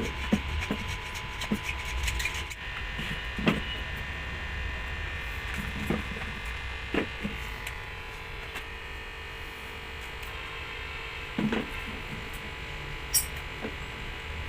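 Steady electrical hum or small motor buzz, with scattered knocks and clicks every second or so.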